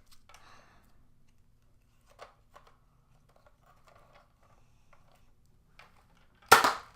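Nerf Retaliator spring blaster, set up as a pistol, handled with a few faint clicks, then firing a dart with one short loud pop near the end.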